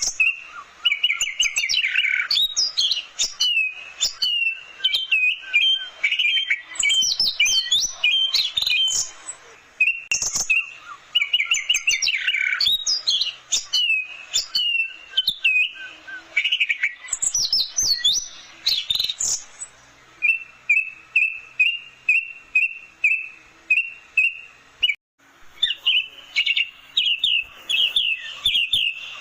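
Orange-headed thrush singing a long, varied song of rapid whistled phrases with quick rising and falling sweeps. About two-thirds of the way in it settles into a run of evenly repeated notes, about three a second, then pauses briefly and resumes its quick phrases.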